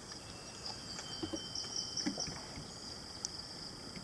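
Faint handling noises: a few soft taps and rustles over a steady high-pitched hiss, with one short click near the end.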